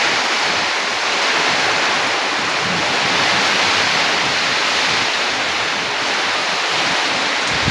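Heavy rain pouring down in a windstorm: a loud, steady hiss of rain and wind that does not let up.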